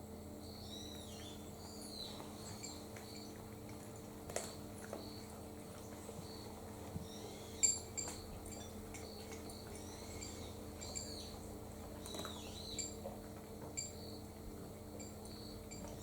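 Small birds chirping and calling repeatedly in short curved notes, with a few sharp clicks, the loudest about 7.5 seconds in, over a steady low hum.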